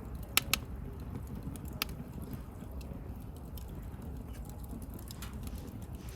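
Wood campfire burning with a steady low rush and crackling, with a few sharp pops: two close together about half a second in and another near two seconds.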